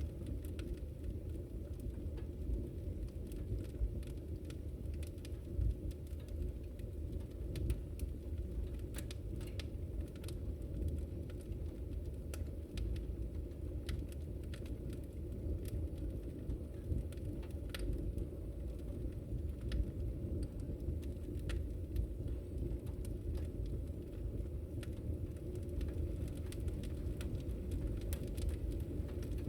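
Wood fire in a fireplace crackling, with a steady low rumble from the flames under frequent small, irregular pops and snaps.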